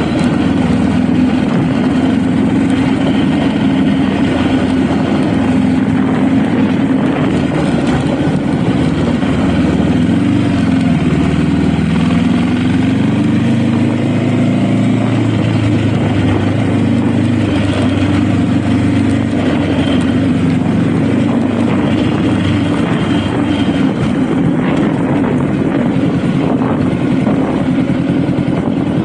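Honda Rebel motorcycle engine running on the move, with a steady note that shifts in pitch between about ten and fifteen seconds in.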